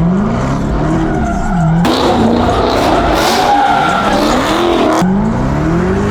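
Engine revving up and falling back over and over during a burnout, with tires spinning and squealing. A harsher, hissier stretch cuts in abruptly about two seconds in and ends just as abruptly about five seconds in.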